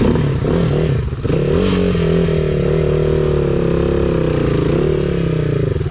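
Enduro motorcycle engine running under light, varying throttle, its note dipping and rising a little as the bike is eased along.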